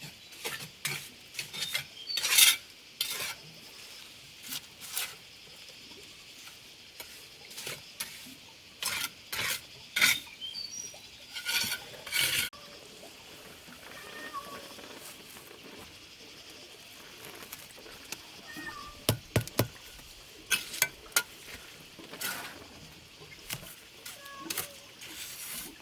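Irregular scraping, scratching and light knocking of hand work, with a few sharp clicks about nineteen to twenty seconds in and quieter stretches in between.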